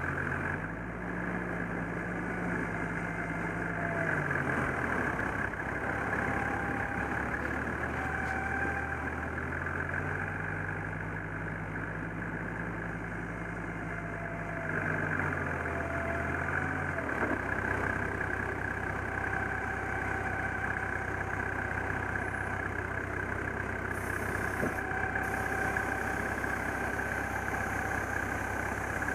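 4WD engine heard from the bonnet-mounted camera, its revs rising and falling twice as it drives, then settling to a steady idle about 17 seconds in.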